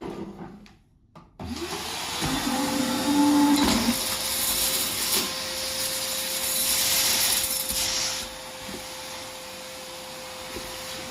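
Vacuum cleaner switched on about a second and a half in, its motor spinning up to a steady whine over the rush of suction. The suction noise grows louder twice, then eases near the end.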